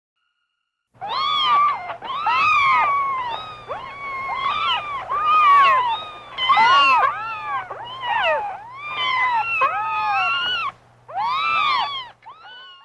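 Cat meowing over and over: a quick run of short mews that each rise and fall in pitch, some overlapping, with a brief pause near the end. A faint steady hum runs underneath.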